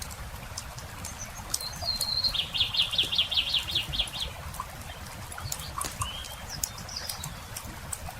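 A songbird sings about two seconds in: one short high note, then a fast trill of about a dozen notes lasting under two seconds. A brief rising call follows near six seconds. Sharp pops of a crackling campfire run throughout.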